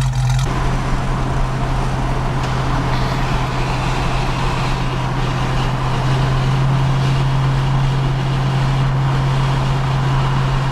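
1972 Plymouth Barracuda with shorty headers and an H-pipe in its dual exhaust, cruising at a steady highway speed: a strong, steady low exhaust hum over road and tyre noise. The H-pipe was fitted to cure its exhaust drone at 55 mph.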